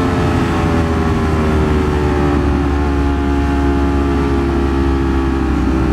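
Ducati Streetfighter V4 S's V4 engine running at steady low revs, its pitch sinking slowly as the bike eases off, over wind and road noise.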